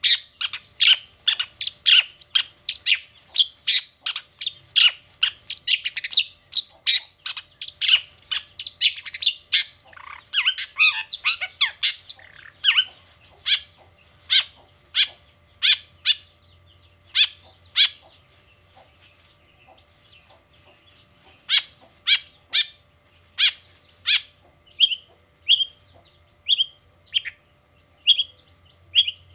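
A long-tailed shrike (cendet) singing: a fast run of sharp chattering notes that thins out about halfway, breaks off briefly, and then settles into a steady series of short repeated calls, a little over one a second.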